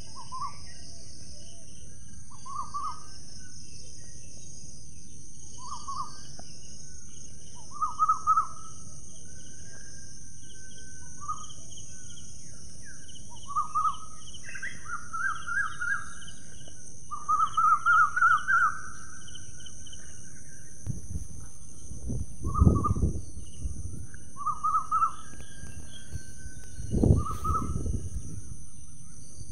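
A bird giving short repeated calls, with a longer run of calls in the middle, over a steady high insect drone. Two low rumbles come in the last third.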